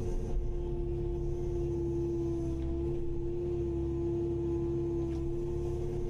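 Kubota KX080-5 excavator running at a steady engine speed: a constant low diesel rumble under a held, steady whine.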